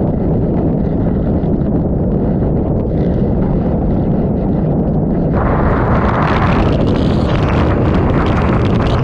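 Typhoon eyewall wind buffeting the microphone as a loud, continuous low rumble, with lashing rain and spray in the wind. About five seconds in the sound turns suddenly brighter and hissier.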